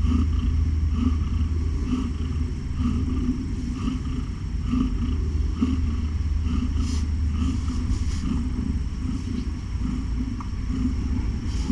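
Cat purring loudly and steadily close to the microphone, a low continuous rumble.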